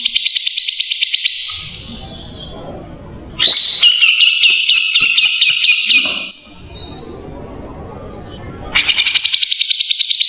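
Grey-cheeked bulbul (cucak jenggot) calling in loud, rapid, buzzy rattling trills, three phrases with short pauses between them: the harsh chatter used as a lure call to provoke and train songbirds.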